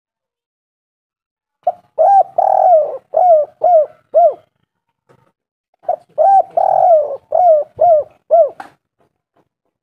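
Spotted dove cooing, two calls about four seconds apart. Each call is a short coo, then a longer rolled coo, then three short arched coos.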